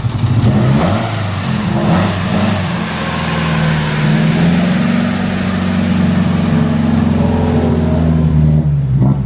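Nissan 240SX S14's engine catching and running, rising in pitch in the first second, then running steadily and loudly.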